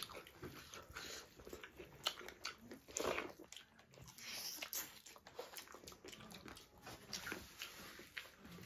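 Close-miked eating sounds: chewing, lip-smacking and wet mouth clicks as chicken drumstick meat and rice are eaten, with a louder burst of bites about three seconds in.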